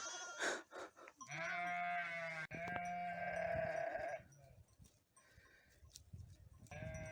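Chios sheep bleating: two long bleats back to back starting about a second in, then another bleat near the end.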